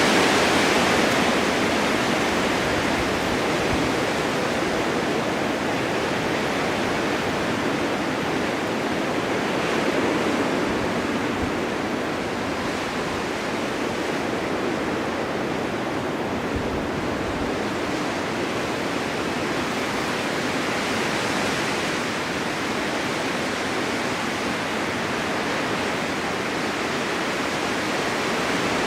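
Blizzard wind, a steady rushing that swells and eases slowly, with a stronger gust about ten seconds in.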